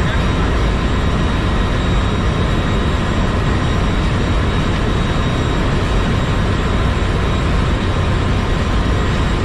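Ship's engine-room machinery running: a loud, steady drone with a constant high whine over it.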